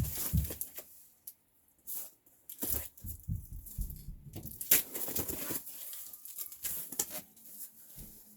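A cardboard box being opened and gone through by hand: irregular tearing, crinkling and knocking of cardboard and packing, with a short pause about a second in.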